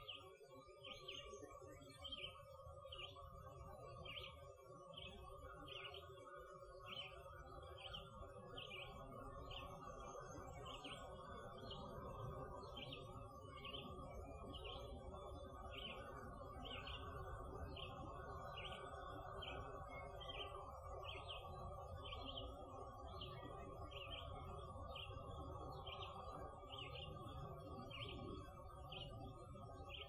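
A songbird repeating one short chirp about once a second, over a faint steady hum and low rumble.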